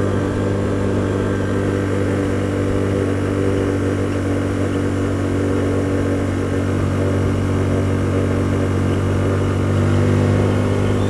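Hyosung GT125R motorcycle's 125 cc V-twin engine running at steady revs on a closed throttle, engine braking, with wind and road noise over it.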